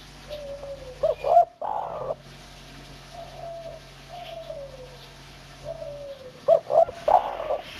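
Spotted dove (tekukur) cooing: soft falling coos, then twice a louder phrase of short notes ending in a clear final 'kuk', the kuk-1 song.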